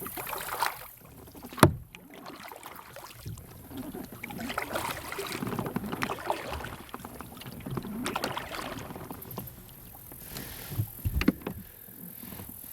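Water and hull sounds from a fishing kayak, with a sharp click about a second and a half in and two more clicks near the end.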